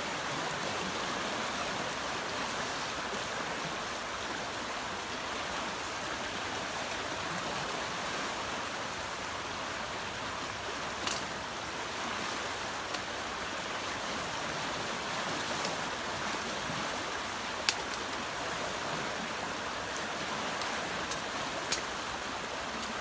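Steady rush of a flooded, fast-flowing river, with a few short, sharp clicks now and then.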